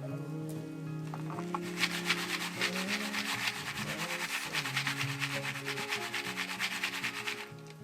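Fast, even scraping or rubbing strokes, many a second, starting about a second and a half in and stopping just before the end, over soft background music.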